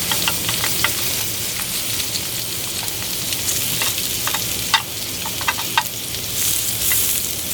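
Thick beef steak sizzling steadily as it cooks, with fat spitting in scattered sharp pops.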